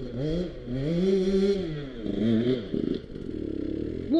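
Two-stroke dirt bike engine revved in short bursts, its pitch rising and falling about three times, with a choppy, uneven stretch near the end.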